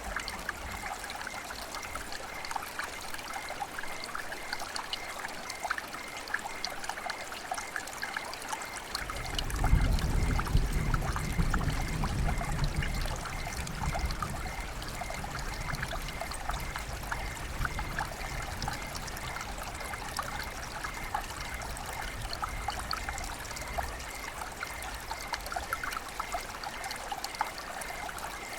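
River water flowing and trickling, full of small splashes. A low rumble comes in about nine seconds in and fades away over the next several seconds.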